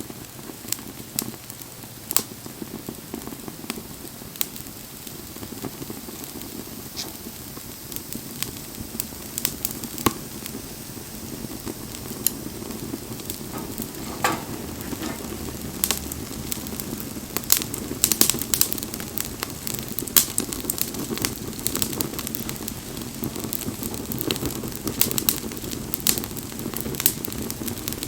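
Wood bonfire crackling: frequent sharp pops and snaps over a steady low rush of burning flame, with the pops coming thicker in the second half.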